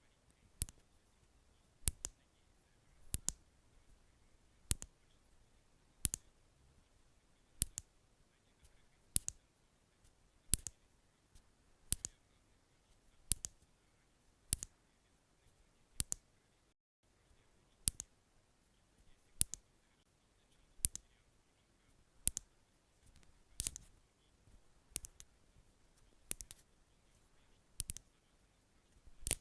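Slow, rhythmic ASMR tapping: sharp, short taps come at a steady pace of about one every second and a half, some as quick double taps.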